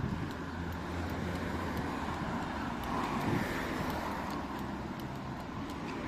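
Street traffic: a motor vehicle's engine running with a steady low hum, and a broader swell of road noise about three seconds in as a vehicle passes.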